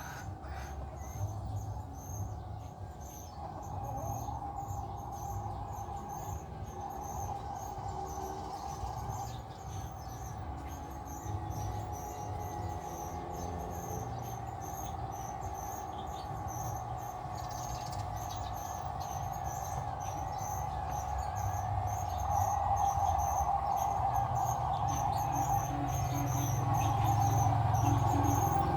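A heavy diesel vehicle's engine running, a steady low rumble with a steady whine over it, growing louder near the end. Rapid high-pitched insect-like chirping goes on throughout.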